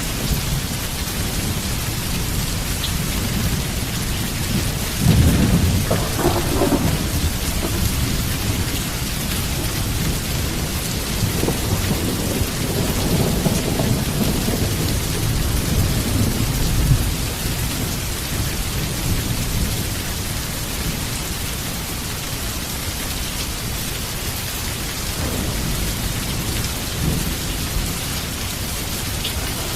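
Heavy rain falling steadily, with rolling thunder rumbling low beneath it; the thunder swells about five seconds in and again for several seconds in the middle.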